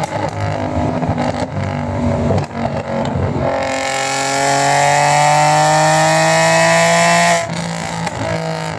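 Straight-piped exhaust of an Audi A4 B6 3.0 V6 Quattro: a rough, uneven burble at low revs, then about three and a half seconds in the note smooths out and climbs steadily in pitch for about four seconds under throttle, before dropping off suddenly back to the uneven burble.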